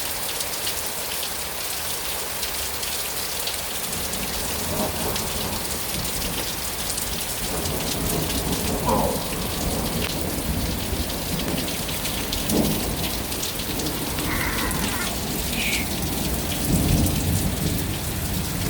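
Heavy thunderstorm: steady pouring rain, with thunder rumbling in from about four seconds in and swelling loudest near the end.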